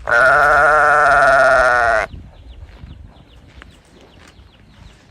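A calf bawling for its mother: one long, loud call of about two seconds with a wavering pitch, followed by quiet farmyard background.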